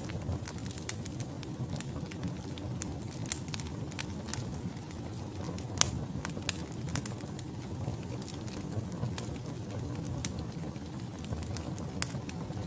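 Wood fire burning in a fireplace: logs crackling and popping with irregular sharp snaps over a steady low rumble of flame, one pop about six seconds in standing out as the loudest.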